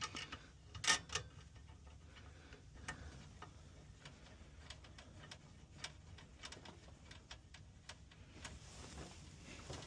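Faint, scattered small clicks and taps of a dual-port manometer and its hoses and fittings being handled and hooked up, with one sharper click about a second in.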